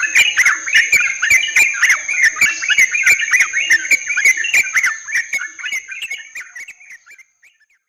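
Yellow-vented bulbuls (trucukan) giving dense, overlapping bubbly chattering calls, with a steady high-pitched whine above them. The sound fades out over the last few seconds.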